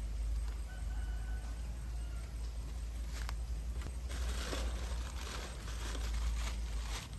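Handling noises: rustling and scraping with a few sharp clicks, over a steady low hum.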